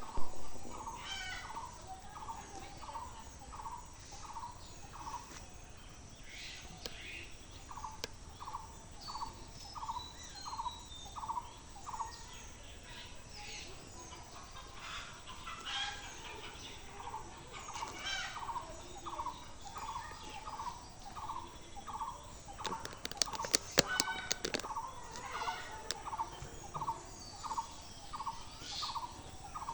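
Birds calling: one repeats a short, hooked note about twice a second in long runs, over scattered higher chirps and whistles from other birds. A quick burst of clicks comes about two-thirds of the way in.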